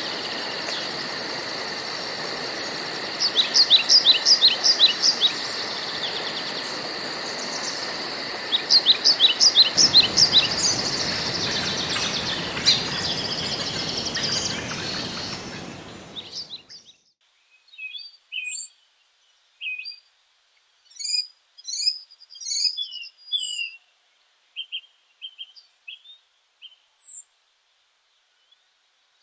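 Woodland ambience: birds singing over a steady hiss with a faint high insect-like buzz, one bird giving two phrases of quick repeated notes. About halfway through, the background hiss cuts off abruptly, leaving only scattered short bird chirps and calls over silence.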